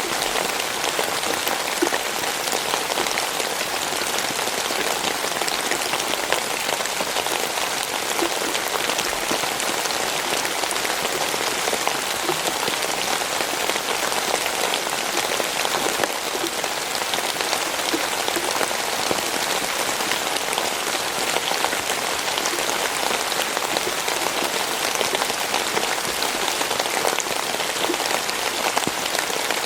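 Steady rain falling, a dense hiss of drops with many small pattering ticks, unchanging throughout.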